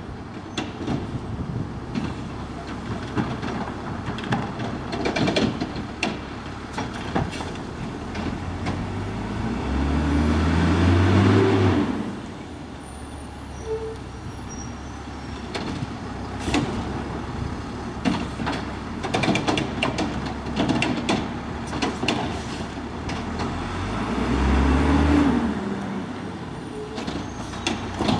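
Small front-loader garbage truck at work: its diesel engine revs up twice, about fifteen seconds apart, to drive the hydraulics, with metal knocks and clanks throughout.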